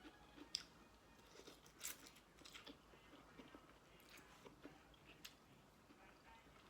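Faint chewing and mouth sounds of a person eating, with a few soft, scattered clicks.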